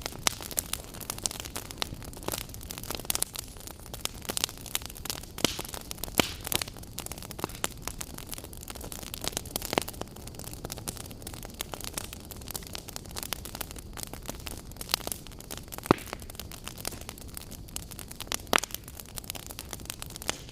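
Campfire burning: a steady hiss with irregular sharp crackles and pops of burning wood, a few of them louder.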